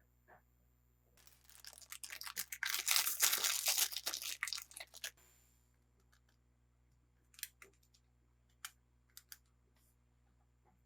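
Toy packaging being torn and crinkled open for about four seconds, followed by a few light clicks.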